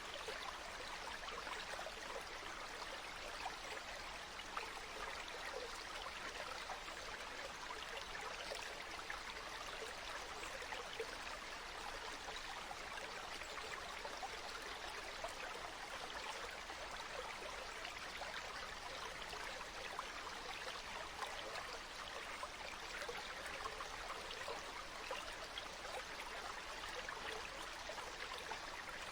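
Flowing water, a steady babble of small splashes that never lets up.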